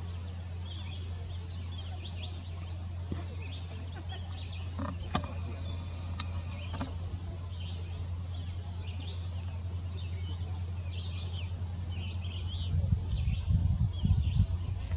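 Small birds chirping on and off over a steady low hum. About five seconds in, a faint high whine with a few clicks lasts a couple of seconds as the camera's zoom motor zooms out. Near the end, low buffeting on the microphone grows louder.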